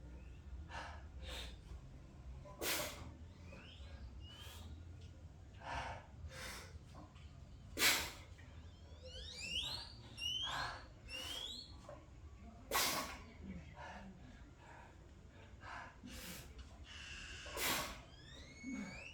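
A man breathing hard through a set of slow squats: short, forceful exhales every second or two, the strongest about 8 seconds in, the sound of heavy effort under fatigue.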